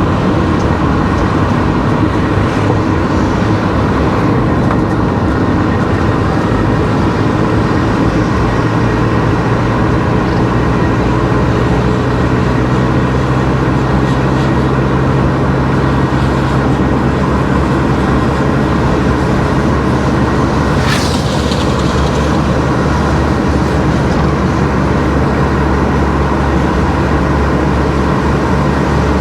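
Car driving on a road: steady engine hum and tyre noise, with a short sharp whoosh about two-thirds of the way through.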